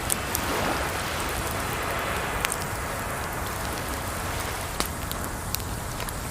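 Wood fire crackling, with a handful of sharp pops scattered through, over a steady rush of running water.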